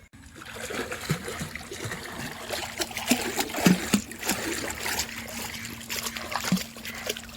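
Pond water trickling and splashing, with small plops and gurgles throughout.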